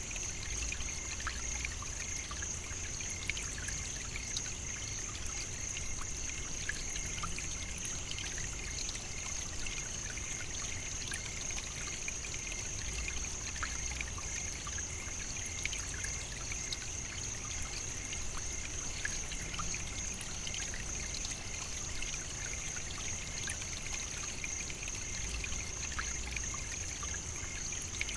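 African savannah nature ambience: a steady, unbroken high-pitched hum over a bed of scattered tiny clicks and crackles, with a soft low rumble underneath.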